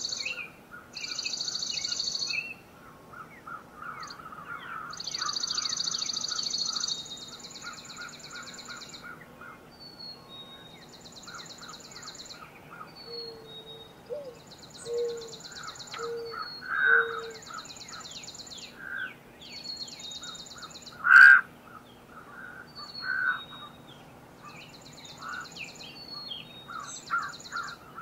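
Woodland birdsong: several birds singing, with high dry trills repeating every few seconds, each lasting one to two seconds, among many short chirps. A single sharp, loud click about two-thirds of the way through.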